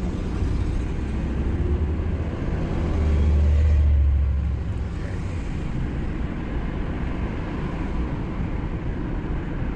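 Engine and road rumble inside a moving van's cabin, a steady low drone that swells louder for a couple of seconds about three seconds in, then settles back.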